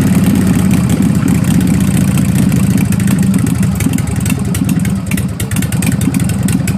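1988 Harley-Davidson Sportster 883's air-cooled V-twin running steadily at idle through aftermarket L.A.F. exhaust pipes, a loud, deep, even stream of exhaust pulses.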